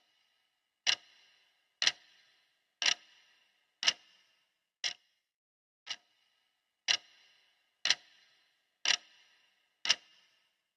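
Clock ticking steadily, one sharp tick a second, each with a short ring after it.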